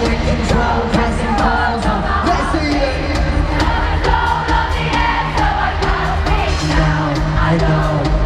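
Live pop song intro played over an arena PA with a steady drum beat, while a large crowd screams and cheers.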